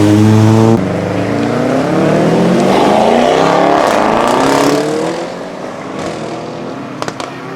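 Modified car accelerating hard past. The engine revs climb, drop sharply about a second in at a gear change, then climb again before fading as the car moves away. A few sharp cracks near the end.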